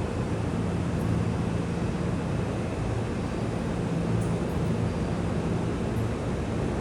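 Steady low rumble with a low hum, like a vehicle or machine running.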